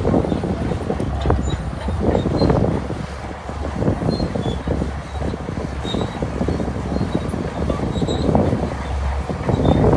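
Shantui DH17C2 crawler bulldozer working: a steady engine rumble under a continuous irregular rattling and clanking.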